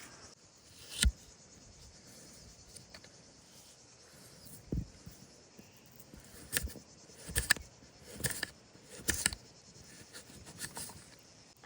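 Several short knocks and scrapes, one loud about a second in and a run of them in the second half, over a faint steady high hiss.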